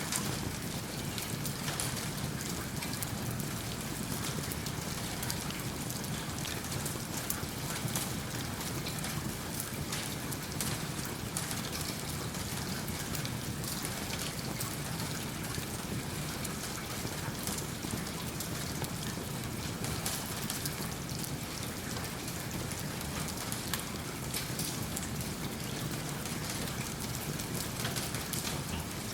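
Steady rain falling, mixed with a wood fire crackling in a fireplace: an even hiss of rain sprinkled with many small sharp pops.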